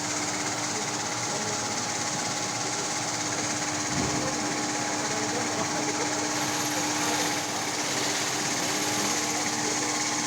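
Diamond wire saw machine running steadily, a dense mechanical noise with one constant tone. There is a brief low thud about four seconds in.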